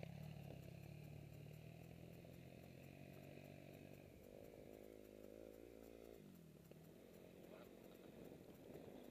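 Faint dirt bike engine running steadily, then revving higher about four seconds in for roughly two seconds before dropping back.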